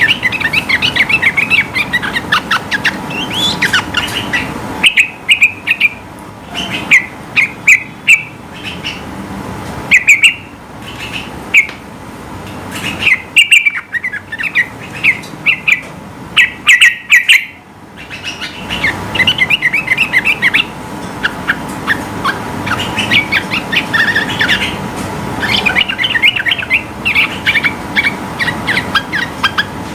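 Yellow-vented bulbul singing in fast, chattering phrases of high notes. From about five seconds in until nearly twenty, the song breaks into louder, separate bursts, then goes back to continuous chatter.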